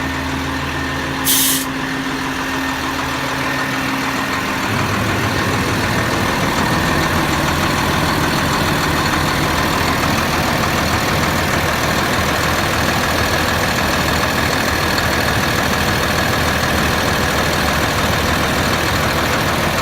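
Cummins six-cylinder turbo diesel of a Sterling truck running steadily at idle, with a short hiss of air about a second and a half in. About five seconds in the engine speed steps up and holds at a higher, louder steady run.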